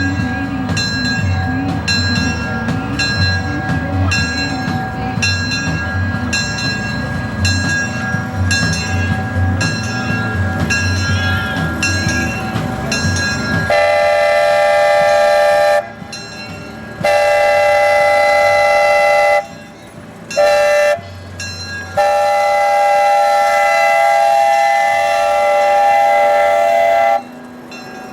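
The 0-4-0 locomotive works with a rhythmic beat about twice a second. About halfway through, its multi-tone whistle sounds four loud blasts, long, long, short, long: the standard grade-crossing signal.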